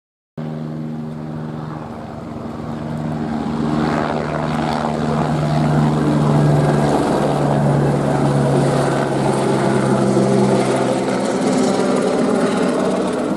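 Airbus AS350 helicopter flying, with the steady drone of its single turboshaft engine and rotor. It cuts in abruptly, grows louder over the first several seconds as it comes closer, then holds steady with a slight drop in pitch.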